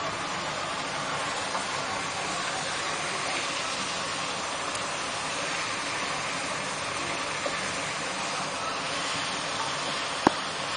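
Curry ingredients sizzling steadily in hot oil in a pan, with one sharp tap near the end.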